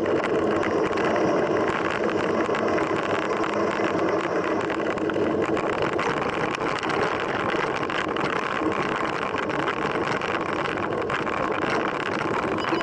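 Steady rushing noise of riding a mountain bike: wind and tyre roar on the rider's camera, with small rattles and clicks from the bike.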